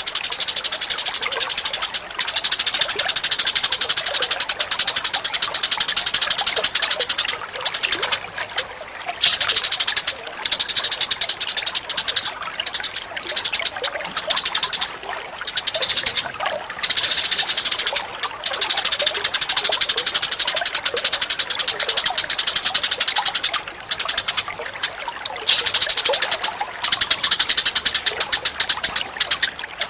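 Recorded songbird calls for a bird-training (masteran) track: a rapid, dense, high-pitched chattering trill that runs in long stretches broken by short pauses. A faint running-water sound lies underneath.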